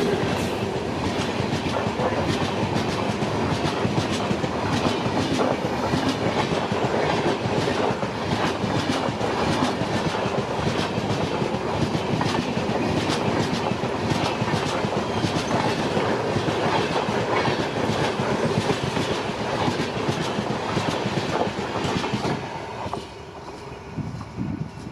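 Express passenger train passing close by at speed: a steady rolling rumble of coaches with wheels clacking rhythmically over the rail joints. It fades away as the last coaches go by, about 23 seconds in.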